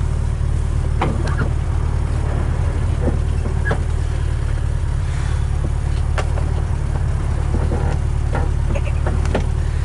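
A 1975 BMW 2002's four-cylinder engine running steadily, heard from inside the cabin, with a few sharp clicks scattered through it.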